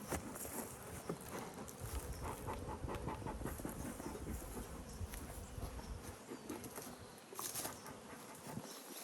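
Honeybees buzzing around an opened hive, with scattered light clicks and knocks.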